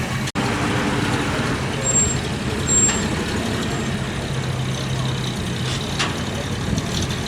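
Vintage fire engine's engine running steadily at low speed as it drives past, a low hum throughout, with a short sharp knock about six seconds in.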